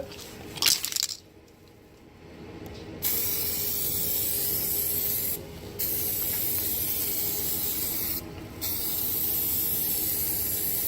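Aerosol can of 2K clearcoat spraying onto a headlight lens, starting about three seconds in: three long steady hissing passes with two short breaks between them, laying on a thick coat.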